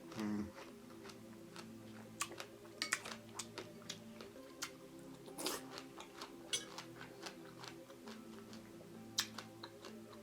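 Close-up eating sounds of fresh berries and pomegranate seeds in coconut water, with scattered sharp wet clicks of chewing and a brief louder low sound at the start. Faint steady background music runs underneath.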